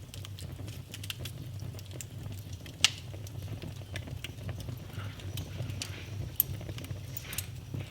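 Wood fire crackling in a fireplace, with irregular snaps and pops over a low steady rumble. A sharp pop comes about three seconds in and another a little past six seconds.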